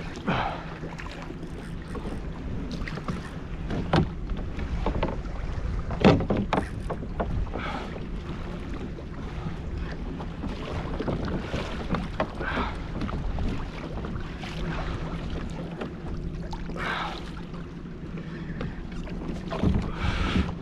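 Redfish being fought beside a plastic pedal kayak: water splashing and scattered knocks against the hull over a steady background of water and wind noise, with the loudest knock about six seconds in.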